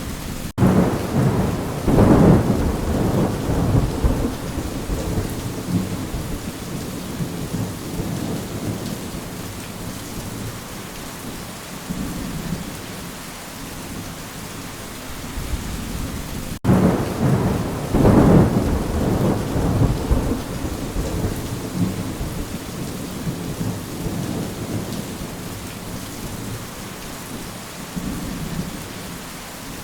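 Steady rain with two long rolls of thunder, one about two seconds in and another about sixteen seconds later, each swelling and then fading away over several seconds.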